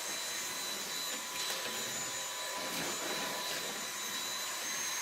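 Vacuum cleaner running steadily with a constant motor whine, sucking up the fine ash and soot left in a fireplace firebox.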